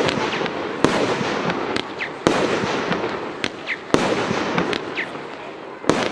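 Consumer fireworks battery firing: loud bangs about every one and a half seconds, four in all, over continuous crackling, with short whistles between the bangs.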